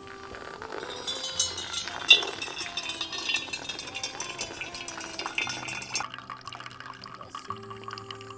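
Liquid pouring into a cup with a fizzy crackle, stopping suddenly about six seconds in, over background music.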